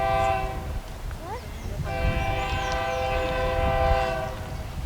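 Diesel freight locomotive's multi-note air horn: a short blast, then after a second's gap a long blast of about two and a half seconds, over the low rumble of the passing empty pulp train.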